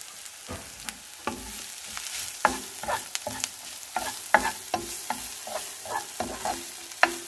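Onion, ginger and garlic sizzling in a frying pan while being stirred, the utensil knocking and scraping against the pan about two to three times a second, each knock ringing briefly.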